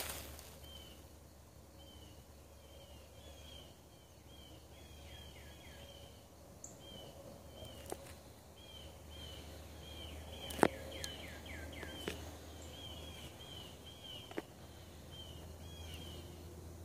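Small birds chirping: short, high calls repeated over and over, some in quick falling runs. A few sharp snaps break in, the loudest about ten seconds in.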